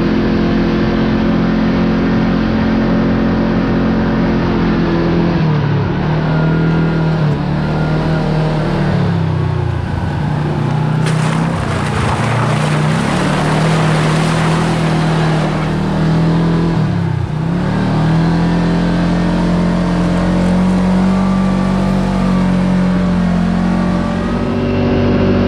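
Side-by-side UTV engine running under way, its note dipping and picking back up about three times as the throttle comes off and on. A rushing hiss rises over it for several seconds in the middle.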